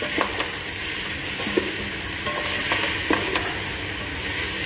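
Sliced onions, garlic, chilli and dried limes sizzling in oil and ghee in a metal pot while being stirred with a wooden spoon, which knocks and scrapes against the pot a few times.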